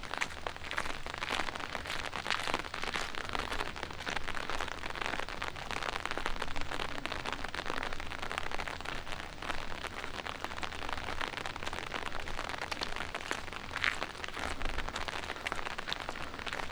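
Light rain falling on pavement and city surfaces: a dense, steady crackle of small drops, with a faint low hum underneath.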